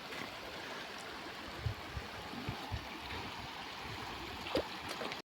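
Mountain stream flowing steadily, with a few soft low knocks.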